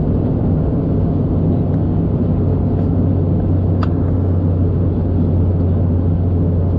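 Steady cabin noise of an Airbus A321neo airliner in flight on descent: a constant low drone under a rush of airflow. There is one faint tick about four seconds in.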